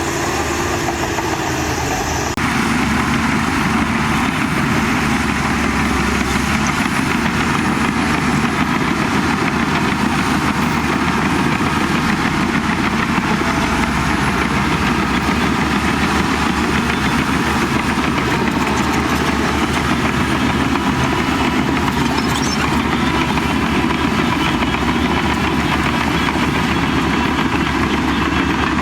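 Heavy diesel engine of earthmoving machinery running steadily, growing louder about two seconds in and then holding level.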